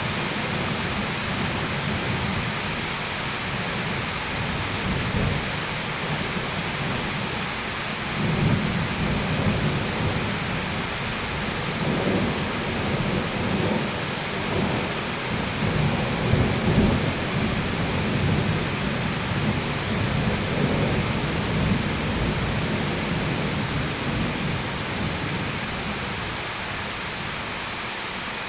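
Steady heavy rain with rolling thunder rumbling low underneath; the thunder swells in several waves through the middle, loudest about two-thirds of the way in, then dies away, leaving only the rain.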